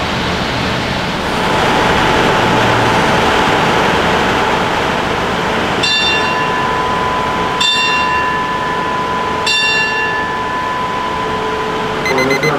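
Train running, a steady rumble, while a bell is struck three times about two seconds apart, each stroke ringing briefly, with another ring near the end.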